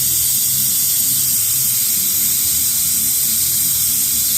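Air-powered brake vacuum bleeder running with a loud, steady hiss as it draws brake fluid through a dirt bike's rear brake line.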